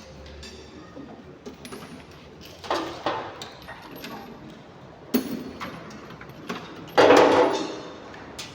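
Metal clinks and clanks of hand tools and brake parts being handled while a car's disc brake caliper is being removed. A few sharp knocks come in the middle, and the loudest clank, which rings briefly, comes about seven seconds in.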